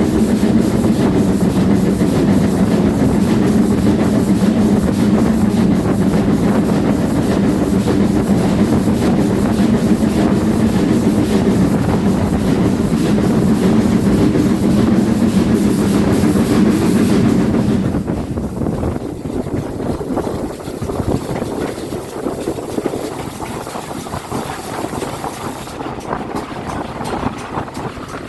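A train running on rails: a steady, loud rumble of wheels and carriages with some clickety-clack, which drops noticeably quieter about eighteen seconds in.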